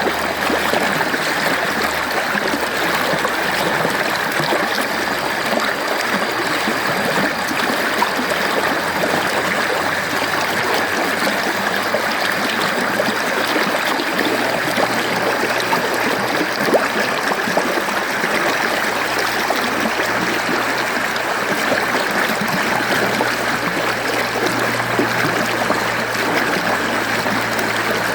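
Mountain stream flowing, a steady, even rush of running water.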